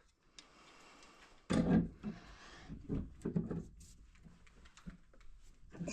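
Scattered knocks and rustles from someone handling things, the loudest a short thud about one and a half seconds in.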